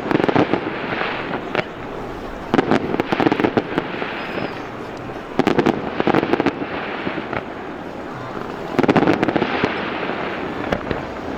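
Fireworks display: four bursts of sharp bangs and crackling, about three seconds apart, over a steady background hubbub.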